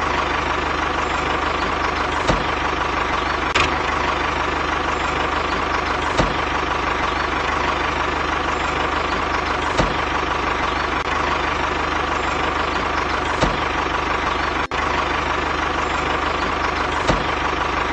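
Mini tractor's small engine running steadily, with a short knock every few seconds.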